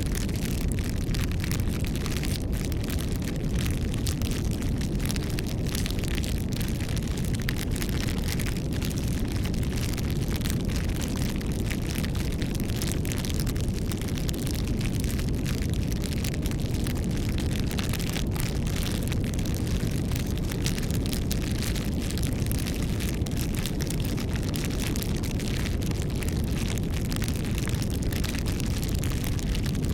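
Campfire burning: a steady low rush of flames with many small crackles and pops from the wood throughout.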